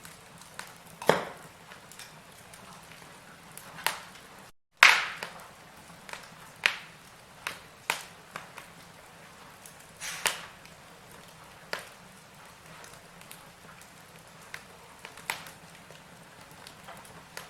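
Firewood burning in a fireplace: irregular crackles and sharp pops over a faint steady hiss. The loudest pop comes about a third of the way in, just after a split-second dropout to silence.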